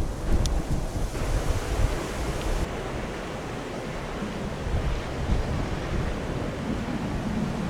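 Strong gusting wind buffeting the microphone: a heavy, uneven low rumble under a steady rush of noise.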